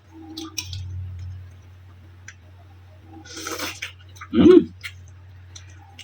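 Close-up eating sounds of noodles: a slurp about three and a half seconds in, then a short, loud mouth sound. Light cutlery clicks are scattered through, over a steady low hum.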